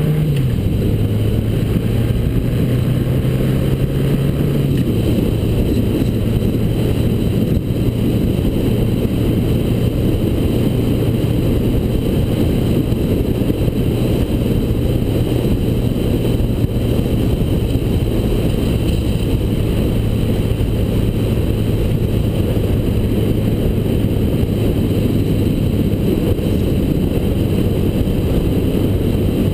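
1979 Honda GL1000 Gold Wing's flat-four engine under way. Its note drops right at the start after climbing, then the engine holds a steady cruising note under constant road and wind noise.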